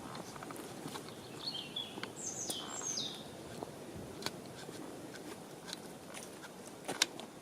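A small songbird sings a brief warbling phrase of falling notes about a second and a half in, over light outdoor rustling and scattered small clicks.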